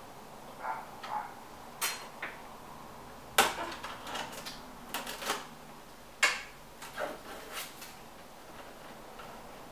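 Metal tools and plumbing fittings clinking and knocking in a dozen or so irregular taps, the two loudest about three and a half and six seconds in, from hand work on a water shut-off valve.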